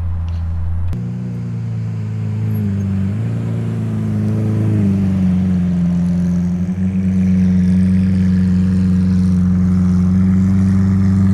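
Lamborghini engine running as the car drives along, its pitch stepping up a few times in the first five seconds, then holding a steady drone.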